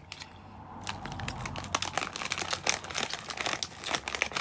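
Plastic snack packaging crinkling and rustling as it is handled, in dense irregular crackles that pick up about a second in.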